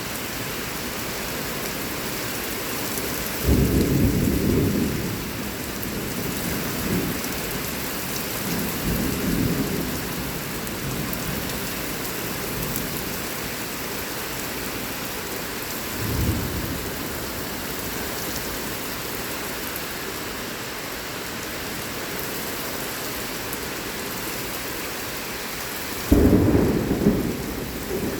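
Heavy rain hissing steadily in a severe thunderstorm, with thunder rumbling about three and a half seconds in, again around nine seconds, and briefly around sixteen seconds. A louder thunder burst breaks in about two seconds before the end.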